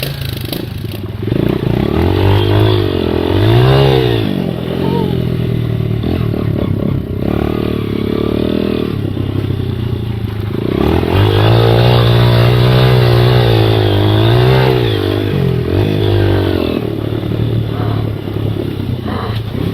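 Motorcycle engine revving up and down as it rides: a couple of quick rises in the first few seconds, a long pull held at higher revs in the middle, then easing back down.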